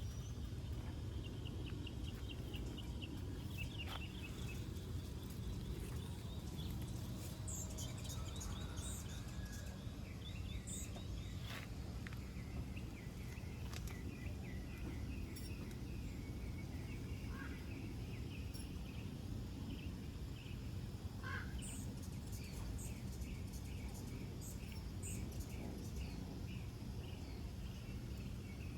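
Small birds chirping, with several quick trills of rapidly repeated notes and scattered high chirps, over a steady low rumble of outdoor background noise.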